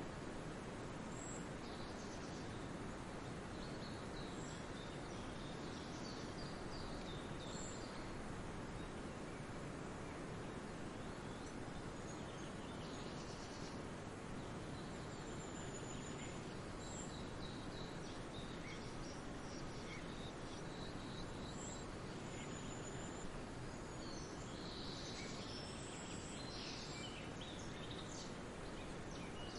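Songbirds chirping and calling now and then over a steady rushing noise, with a flurry of calls near the end.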